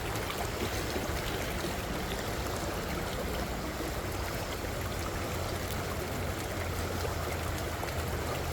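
Small creek water running over rocks: a steady, even rushing with no break.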